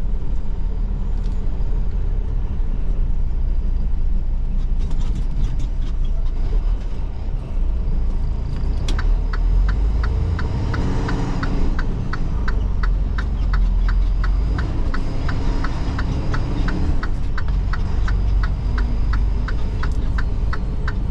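Semi truck engine running with a steady low rumble; about halfway its pitch rises briefly as it revs. From about nine seconds in, an even, rapid ticking joins it, about three ticks a second.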